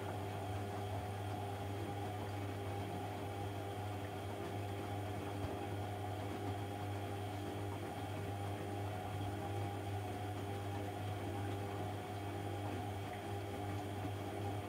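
AEG Lavamat 1400 washing machine running with a steady, deep hum and a few higher steady tones, unbroken throughout.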